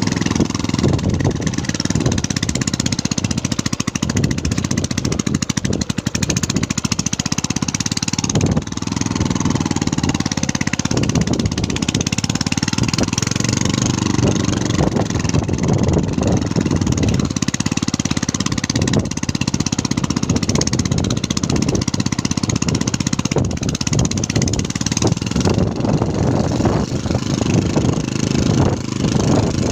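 An engine running steadily, with a dense low pulsing.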